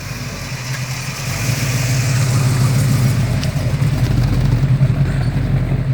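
A classic car's engine running with a low, steady note that grows louder over the first two seconds and then holds.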